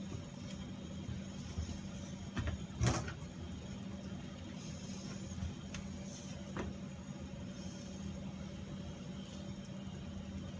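Steady machine hum with a few short knocks, the loudest about three seconds in.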